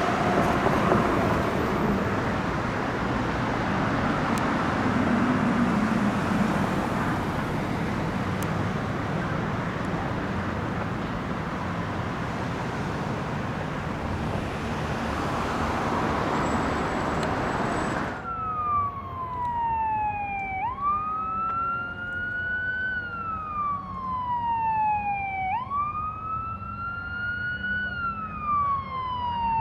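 Road traffic noise, then after an abrupt cut a fire engine's electronic siren on wail. Each cycle rises quickly and falls slowly, about one every five seconds.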